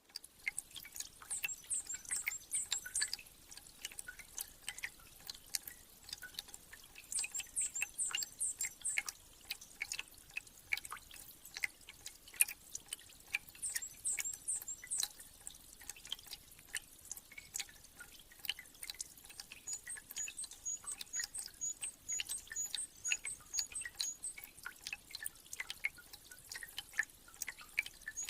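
Meltwater dripping in a spring thaw, irregular drops falling one after another, with small birds singing: short high twittering phrases a few times, then a high call repeated about twice a second from about two-thirds in.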